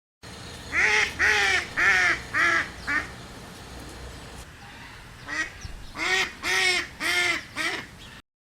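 Duck quacking: five short quacks, a pause of about two seconds, then five more.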